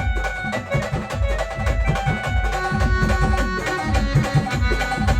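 Live brass band music playing an instrumental passage: a held melody line over fast, dense drumming.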